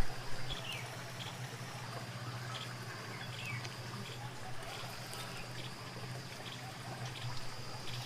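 Water trickling, with short descending bird chirps every second or so over a steady low hum and a faint high steady tone.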